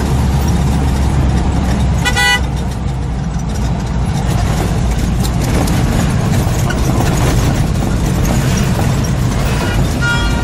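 Car horn honking twice, each blast short, once about two seconds in and again near the end, over a steady low rumble of engine and road noise.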